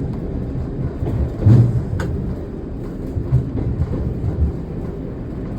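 Running noise inside the cab of a heritage diesel train on the move: steady low rumble of engine and wheels on rail, with a few low thuds and a sharp click about two seconds in.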